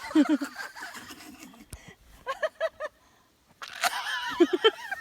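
A person laughing: a quick run of short giggles, with brief snatches of untranscribed voice before and after.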